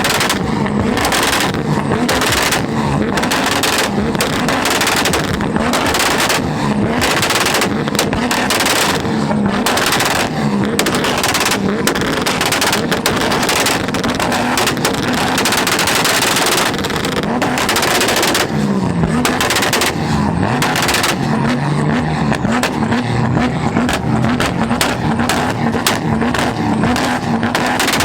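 Tuned cars held on two-step launch control, their exhausts banging in rapid, irregular strings of loud pops like machine-gun fire over an engine note bouncing at the rev limiter.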